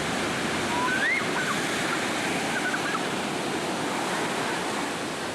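Ocean surf washing onto a beach, a steady rushing wash of waves.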